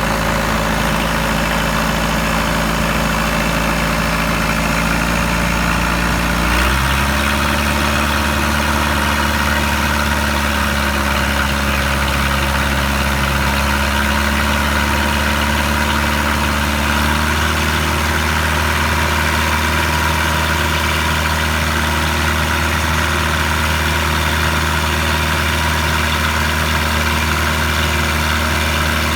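Boat engine running steadily and loud. About six and a half seconds in it picks up speed to a higher steady note, and it shifts pitch again slightly about seventeen seconds in.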